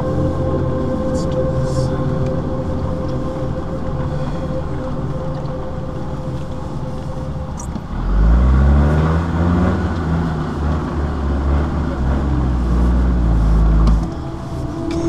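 Land Rover Defender engine running as it crawls down a steep gravel mountain pass. About eight seconds in the revs rise sharply and stay high and loud for around six seconds, then drop back.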